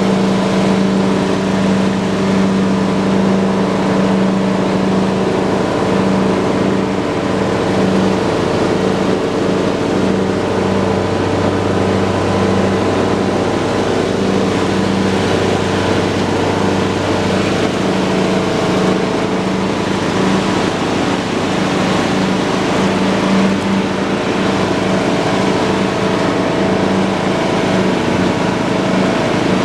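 John Deere lawn tractor's engine running steadily while mowing. A deeper low hum joins for several seconds in the middle.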